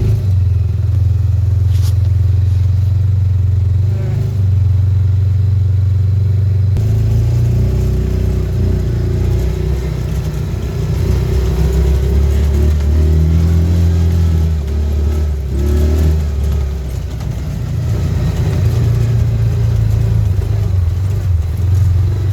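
A small farm vehicle's engine running steadily while driving across a field; its note changes about seven seconds in and keeps shifting after that.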